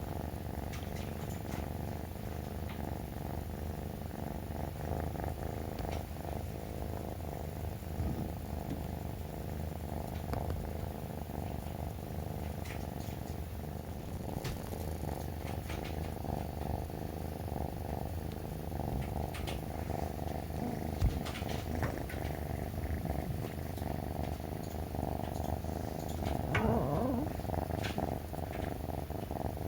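Three-month-old brown tabby kitten purring steadily, with a short rising-and-falling pitched sound near the end.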